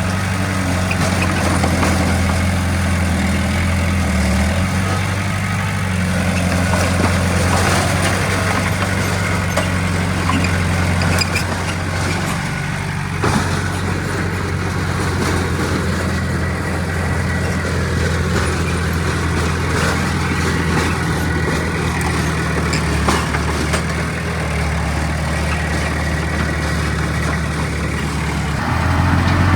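Heavy diesel earthmoving machinery running steadily, with a few short knocks along the way.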